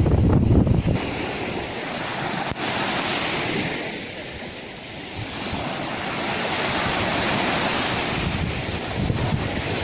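Sea waves washing and breaking, easing off about four seconds in and building again, with wind rumbling on the microphone at the start.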